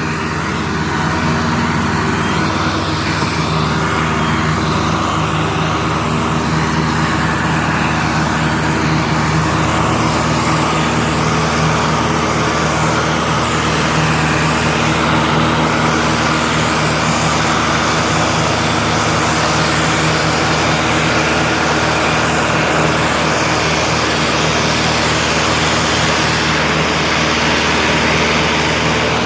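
Diesel engines of two Massey Ferguson tractors, a 385 and a 260, running steadily and loudly under heavy load as they strain to move a loaded sugarcane trolley.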